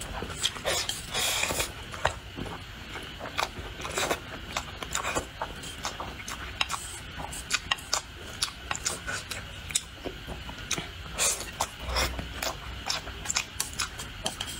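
A person eating a plate of rice and fried tofu with chopsticks: wet chewing and lip smacking, made up of many short, irregular clicks.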